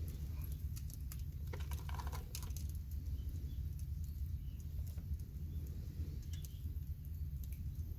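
Scattered light clicks and taps, a small cluster of them about two seconds in, over a steady low rumble.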